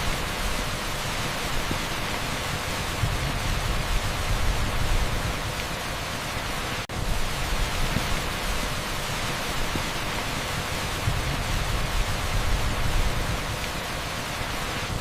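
Torrential rain pouring onto an asphalt street: a steady, dense hiss with no single drops standing out, broken by a brief sharp dropout about seven seconds in.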